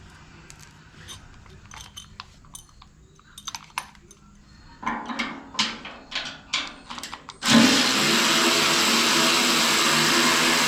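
A few seconds of clicks and clatter from handling metal parts and screws. Then, about seven and a half seconds in, a power drill starts and runs steadily at speed, driving out the screws on the wood chipper's housing.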